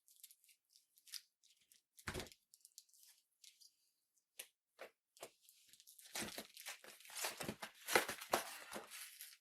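Product packaging being opened by hand: scattered small handling clicks and a knock, then from about six seconds in a dense stretch of tearing and crinkling.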